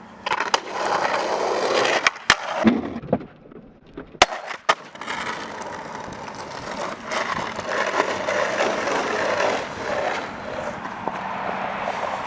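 Skateboard wheels rolling on pavement, with sharp clacks of the board hitting the ground about two seconds in and again about four seconds in, then rolling on.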